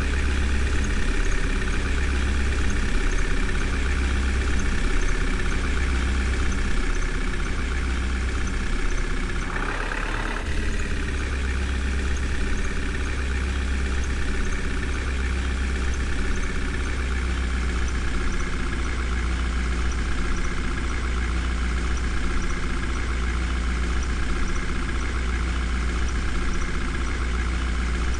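Engine idling steadily with a low, even throb; a brief rising swell about ten seconds in.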